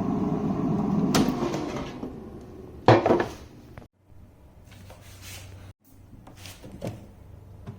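Household knocks and clicks, like a cupboard door being opened and shut and things being handled. The loudest knock comes about three seconds in. Before it there is a steady rushing noise that stops about two seconds in.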